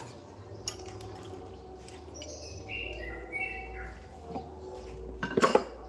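A few short bird chirps about halfway through, then a brief loud clatter of several quick knocks near the end.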